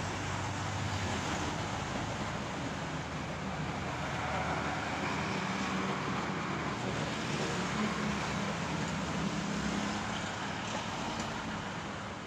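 Motor vehicle noise: a steady engine rumble and road traffic hiss, the low hum swelling in the middle and easing near the end.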